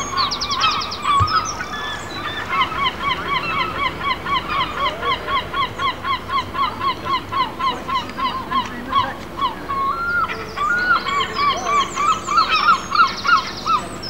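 A bird calling a long run of short, evenly spaced notes, about three a second, then a few longer, more broken calls after about ten seconds. Quick, high, rapid chirps sound at the very start and again near the end.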